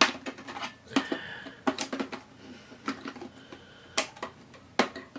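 Laptop parts being handled and fitted during reassembly: a series of sharp clicks and knocks of plastic and metal pieces, the loudest at the very start, with a brief scrape about a second in.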